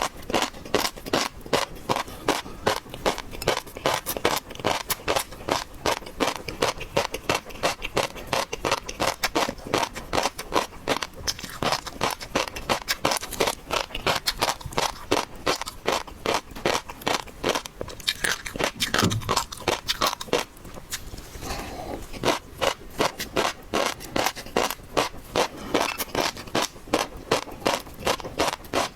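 Close-miked chewing of seafood: wet, rhythmic mouth clicks and smacks at about three a second, pausing briefly a little past the middle before resuming.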